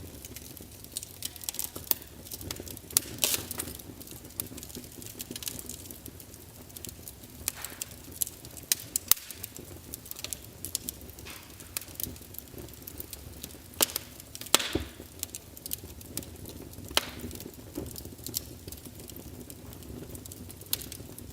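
Wood fire burning in a fireplace: logs crackling and snapping with irregular sharp pops over a low steady hiss, a few louder pops standing out.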